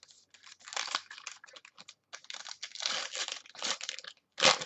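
Crinkling and tearing of plastic wrapping as trading cards are unpacked and handled, in irregular crackly bursts, with the loudest crackle near the end.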